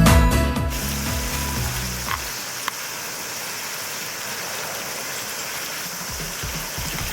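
Electronic background music fading out within the first second or two. It leaves a steady, high-pitched chorus of insects, with a couple of faint clicks.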